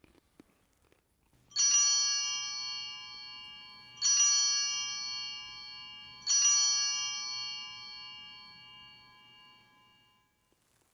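Altar bell struck three times, about two seconds apart, each stroke ringing on and slowly dying away: the bell rung at the priest's communion in a low Mass.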